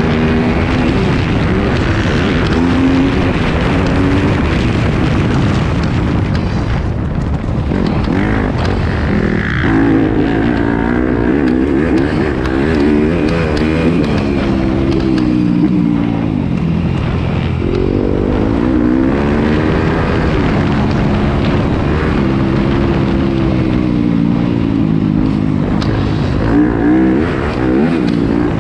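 Yamaha YZ250F four-stroke single-cylinder motocross engine revving up and down over and over as the bike accelerates, shifts and backs off around the track.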